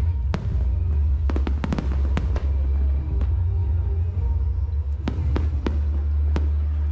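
Aerial fireworks going off in a display: a dozen or so sharp bangs, clustered in the first two and a half seconds and again from about five to six and a half seconds in, over a steady low rumble.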